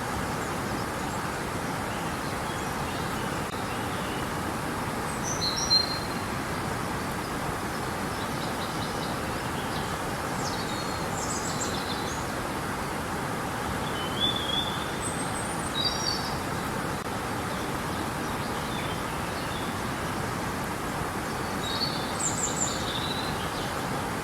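Steady rushing of river water, with birds chirping briefly over it several times.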